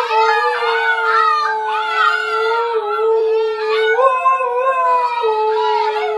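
Dogs howling, several voices overlapping: one long, nearly steady howl held throughout, with higher wavering howls and yips over it.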